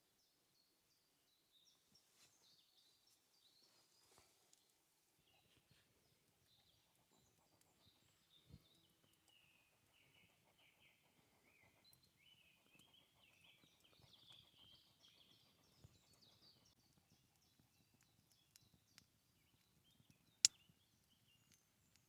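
Faint birdsong, many small chirps and trills, with a few soft knocks and one sharp click near the end.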